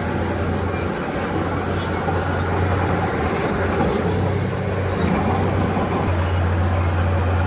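Heavy earthmoving machinery's diesel engine running steadily, with a strong low hum under a dense mechanical rumble.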